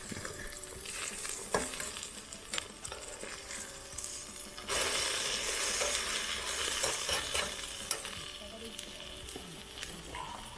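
Egg-soaked French toast sizzling in a frying pan, with a few sharp clicks; the sizzle grows louder about five seconds in.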